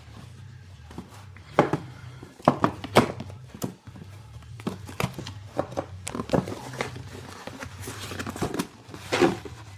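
Irregular knocks, taps and rustles of firework packages being picked up and handled, with a steady low hum underneath.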